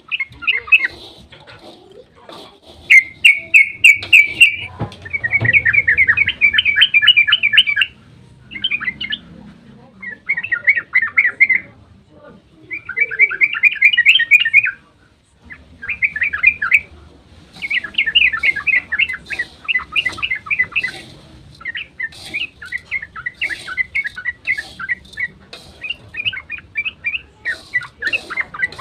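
Yellow-vented bulbul (trucukan) singing in excited 'ropel' bouts: rapid trills of quick repeated notes, each bout lasting a second or a few seconds, over and over with short pauses between.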